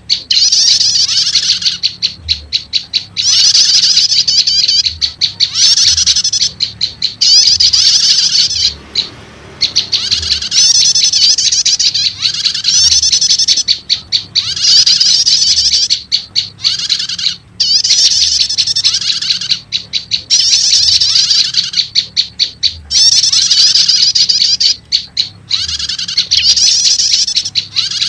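Bird-lure recording of prenjak lumut calls mixed with prenjak stater calls: loud, rapid, high-pitched chattering phrases, each a second or two long, repeating with short breaks between them.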